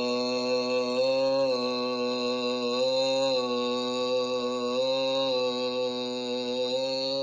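A man's voice holding one long chanted tone, steady with slight shifts in pitch.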